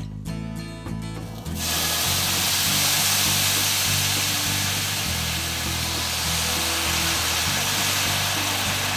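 Chicken livers sizzling loudly in oil in a frying pan, starting suddenly about a second and a half in, over background music.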